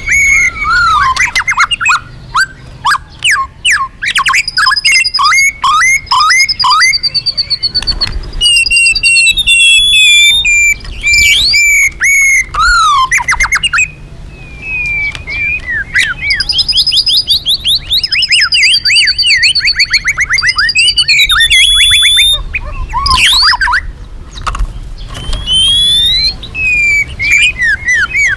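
White-rumped shama (murai batu) singing loudly and almost without pause: a varied run of clear whistles, rapid trills and fast sweeping notes that glide up and down, stopping only briefly a couple of times.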